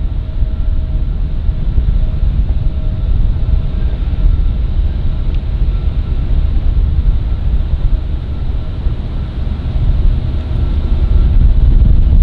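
Jet airliner engines running with a deep, steady rumble and a faint steady whine above it, louder near the end.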